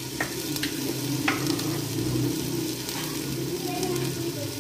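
Chicken pieces frying in hot oil in a clay cooking pot, a steady sizzle, with a few short knocks of a wooden spoon against the pot in the first second and a half.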